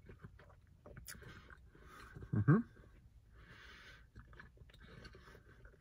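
A person chewing a mouthful of food, with a short hum whose pitch rises steeply about halfway through, the loudest moment.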